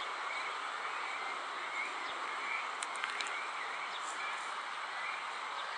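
Steady outdoor background noise with faint, short bird chirps repeating every second or so.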